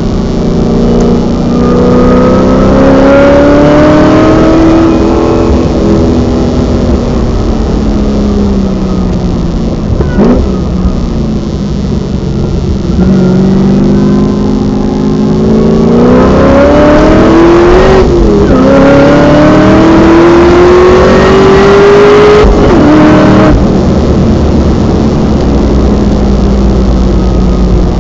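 Supercharged 6.0-litre V8 of a 2010 Holden VE SS Sportwagon, heard from inside the cabin at full throttle on track. The revs climb for several seconds and fall away. About thirteen seconds in they climb again, with a quick upshift around eighteen seconds, and drop off near twenty-three seconds.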